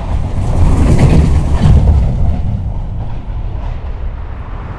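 A train rumbling past, swelling about a second in and then slowly fading.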